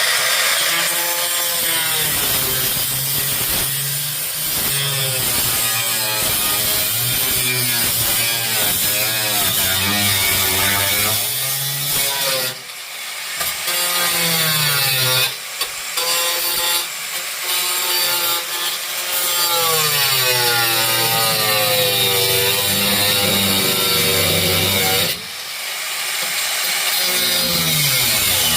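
Power tool cutting through the car's sheet-metal trunk floor, its pitch rising and falling as it bites into the metal, easing off briefly twice.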